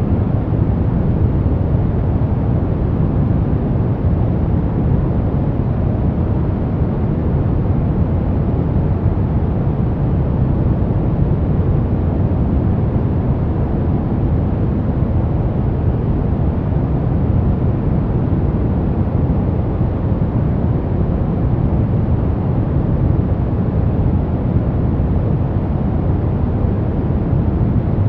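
Steady, unbroken synthetic noise of the sleep-aid kind, sold as white noise but weighted toward the deep end: a low, even rushing sound with little hiss on top, like brown noise.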